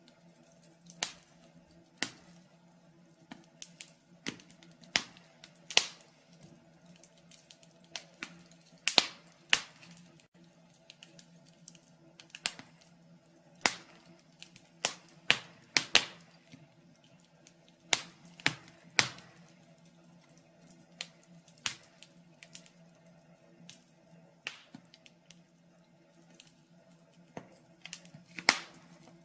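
Wood fire crackling in a fireplace: irregular sharp pops and snaps at uneven intervals over a faint steady low hum.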